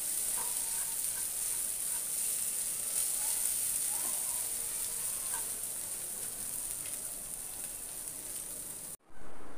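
Shredded loitta fish crumble sizzling as it dry-fries in a wok, stirred and scraped with a spatula, a steady hiss. The sizzle cuts off abruptly near the end.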